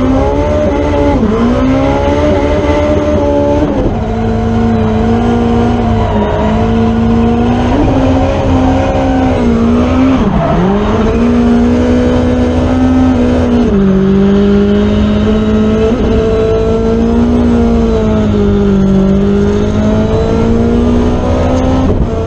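Honda S2000 drift car's engine held high in the revs through a drift run, with quick dips in revs about a second in, around six seconds and around ten seconds, and settling a little lower from about fourteen seconds on.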